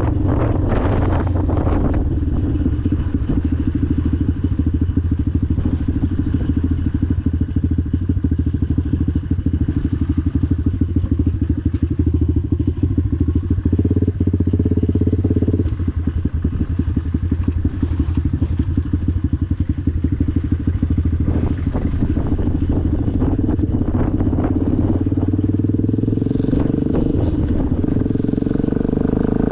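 Motorcycle engine running steadily while riding, with a fast, even firing pulse. Its pitch lifts briefly about halfway through and again near the end.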